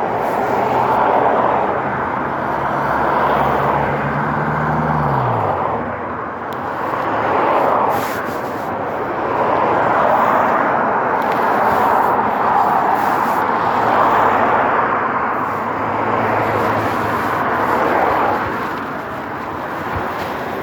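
Road traffic passing: a rush of tyre and wind noise that swells and fades as vehicles go by. A car engine's note drops in pitch and falls away about five seconds in.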